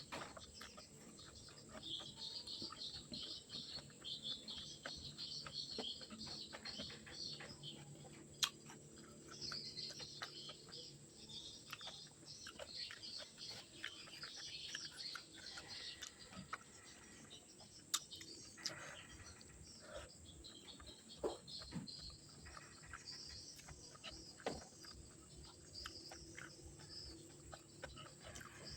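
Faint eating sounds, with many small mouth and chewing clicks and two sharp clicks, one about a third of the way in and one just past halfway. Steady high chirping runs in the background.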